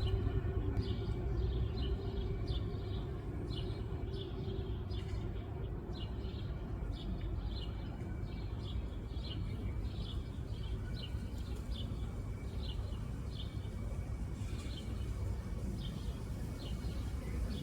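A small bird calling with short, high chirps, about two a second, over a steady low background rumble.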